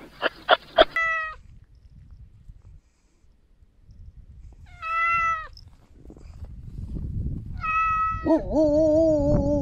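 Domestic cat meowing: separate short meows about a second in, around five seconds and near eight seconds, then a longer, lower, wavering call near the end.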